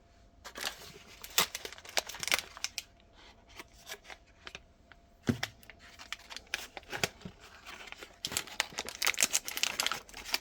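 Ice cream sandwich packaging being torn open and crinkled by hand: scattered crackles and tearing, becoming steady, dense crinkling for the last couple of seconds.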